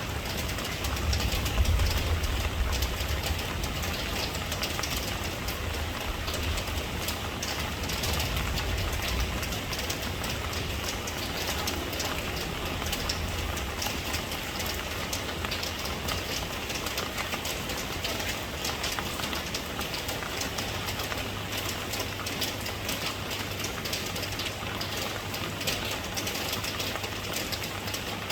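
Steady heavy rainfall, a dense even hiss of drops. A low rumble sits under it for the first ten seconds or so, then fades.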